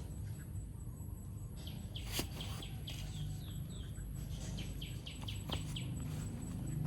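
A rapid run of short, high, falling animal chirps, about two to three a second, with two sharp clicks among them, over a steady low rumble.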